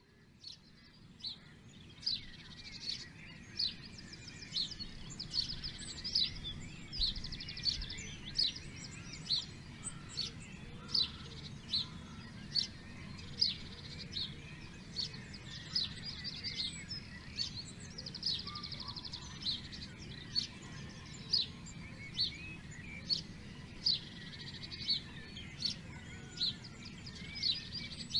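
Several wild birds singing: one sharp high call repeats a little more than once a second, with fast trills from other birds between the calls, over a steady low background rumble. It fades in over the first few seconds.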